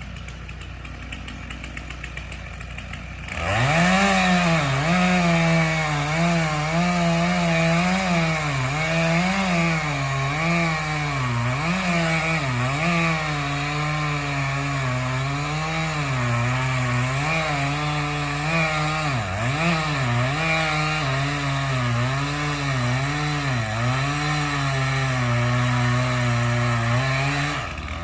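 Chainsaw cutting into a large tree trunk, starting about three seconds in, its engine pitch dipping and recovering again and again as it bogs under load, and cutting off just before the end. A tractor engine idles steadily underneath.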